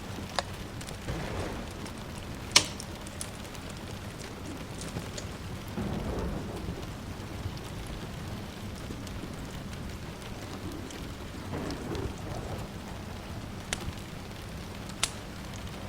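Steady rain with soft low rolls of distant thunder three times, over a wood fire crackling with a few sharp pops, the loudest a few seconds in.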